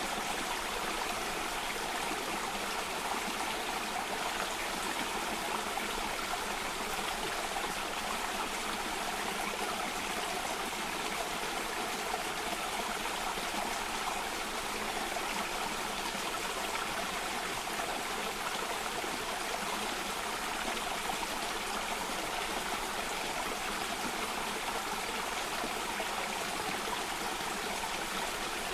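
Water flowing steadily in a stream or cascade, an even, unbroken rush with no pauses.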